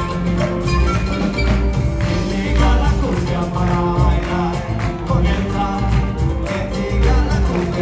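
Live Peruvian band music with a steady beat, percussion and melody instruments, with some singing.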